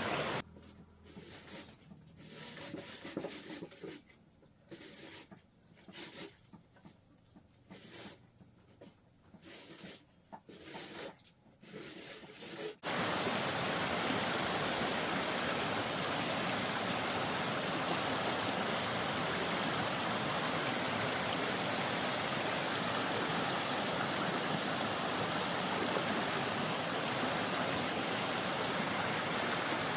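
Mountain stream water rushing steadily. For the first dozen seconds a quieter stretch with scattered sharp knocks is heard instead, before the rushing water cuts in suddenly.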